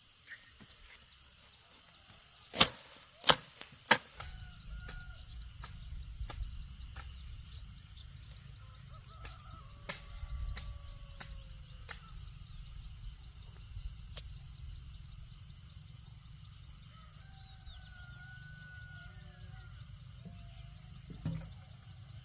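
Four sharp knocks in quick succession about two and a half to four seconds in, with a single further knock near the end. After the knocks a low rumble sets in, with faint whistling calls over a steady high-pitched hum.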